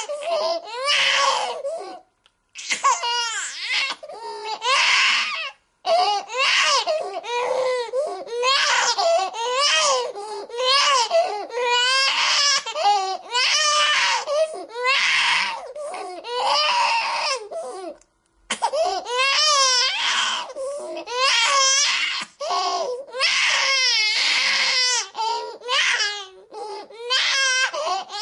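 Infant crying hard: a run of high-pitched wails, each rising and falling in pitch, broken by quick catches of breath and a few brief silent gaps.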